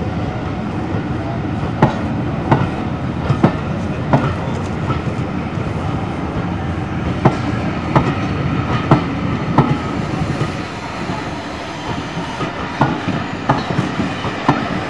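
A steam-hauled passenger train rolling slowly through the station, its wheels knocking irregularly over rail joints and pointwork over a steady rumble.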